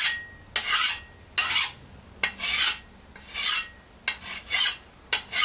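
A hand file drawn in repeated strokes across a freshly quenched steel knife blade made from a lawnmower blade, as a file hardness test; about seven rasping strokes, a little more than one a second. The file skates off the steel, a sign that the blade is fully hardened.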